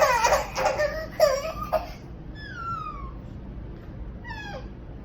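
Wordless vocalizing from a girl with cerebral palsy. A run of short voiced sounds comes first, then a long falling whine about two and a half seconds in and a shorter falling one near the end.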